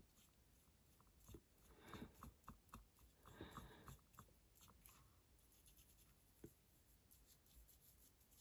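Near silence with faint scratchy rubbing and scattered light taps and clicks, the sounds of hand-painting a small diecast model car body with a brush. The rubbing is densest in the first half.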